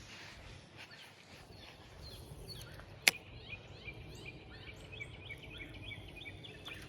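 Faint outdoor background with a single sharp click about three seconds in. After it a small bird chirps in a long, rapid run of short rising and falling notes.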